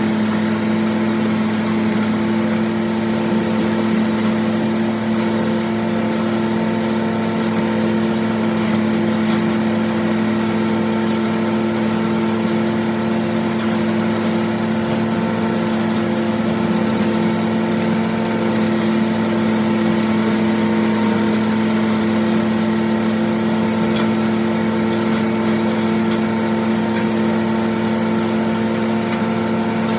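John Deere 4230's six-cylinder diesel engine running at a steady speed under PTO load, driving a New Holland 355 grinder-mixer's hammermill as it grinds corn.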